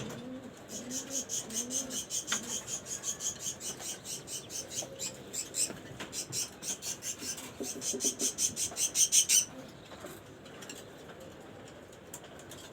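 Budgerigars chirping in a fast, even series of high chirps, about five a second, which grow louder and then stop about three seconds before the end. Pigeons coo low underneath during the first couple of seconds.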